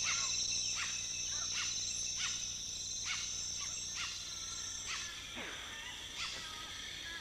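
Tropical rainforest ambience: a steady high-pitched insect drone, with short animal calls repeating about once a second and one falling call past the middle.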